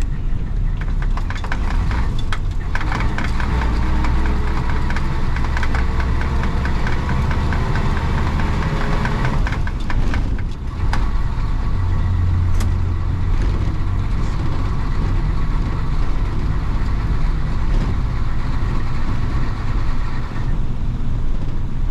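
1966 Isuzu BXD30 bonnet bus's DA640 diesel engine pulling under way. The engine note climbs for several seconds, breaks briefly about ten seconds in at a gear change, then runs steadier.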